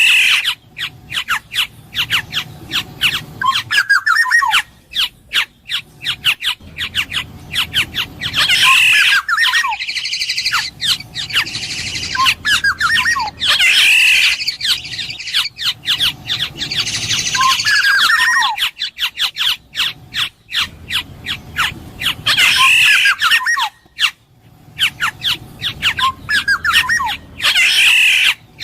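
Black-naped oriole calling. It repeats downward-sliding calls every few seconds, mixed with rapid sharp clicking notes.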